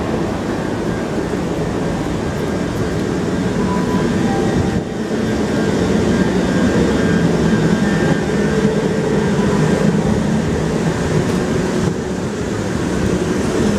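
On-board running noise of a Class 387/1 Electrostar electric multiple unit: a steady rumble with humming tones from the train, growing a little louder about five seconds in.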